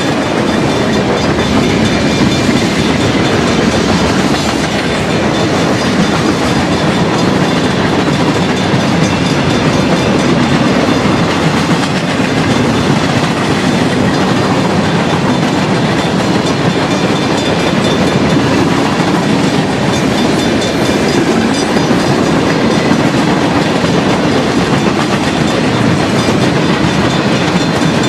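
A freight train of tank wagons rolling past, its steel wheels clattering steadily over the rail joints.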